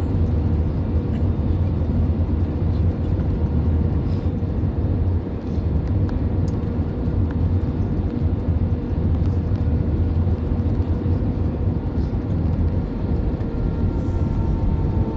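Steady cabin noise of an Airbus A320 during its landing: a deep rumble of engines and airflow with a steady mid-pitched hum over it, heard from inside the cabin.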